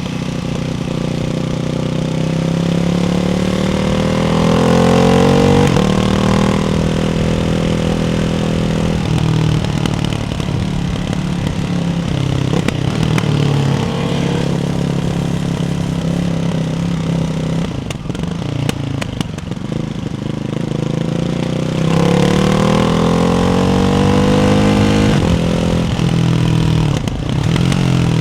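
Ducati Hypermotard 698's single-cylinder engine through a baffled Termignoni exhaust, its revs climbing steadily for several seconds, holding, then falling back. It runs steady for a while, then climbs and falls back again near the end.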